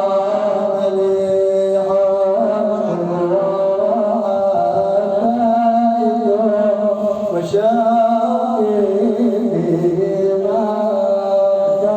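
Male munshid chanting an Arabic religious nashid (madih in praise of the Prophet), with long held notes and ornamented melodic turns.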